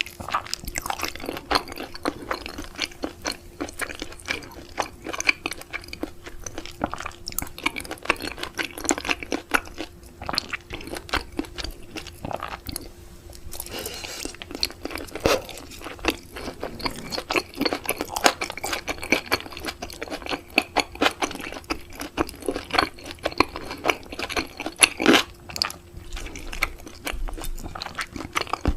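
Close-miked chewing and biting of raw seafood: a dense, irregular run of small wet crunches and clicks.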